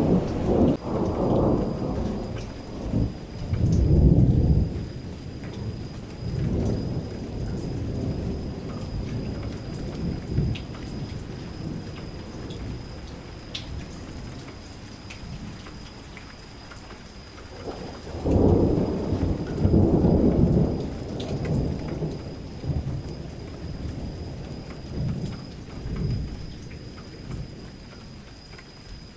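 Steady rain with scattered drop ticks and two rolls of thunder: one rumbling at the start for about five seconds, and another starting about eighteen seconds in and trailing off in smaller rumbles.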